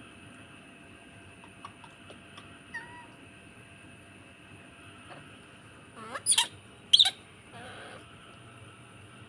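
Baby monkey calling: a few faint chirps, then two loud, sharp shrieks about six and seven seconds in.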